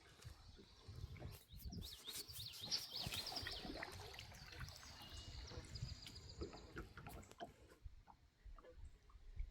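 Birds singing in a run of quick, high chirps and short whistled notes for several seconds, faint, over a low rumble and a few light knocks.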